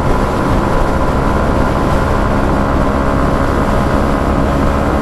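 A 2017 Yamaha MT-125's single-cylinder four-stroke engine running at a steady pitch while the motorcycle is ridden at constant speed.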